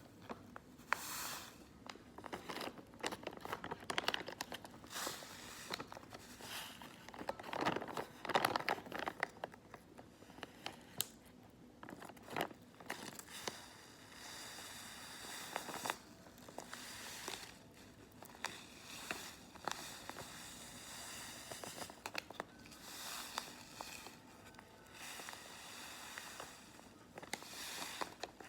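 Close-up crinkling and rustling of crinkly material handled by hands, with dense, irregular crackles, busiest in the first third.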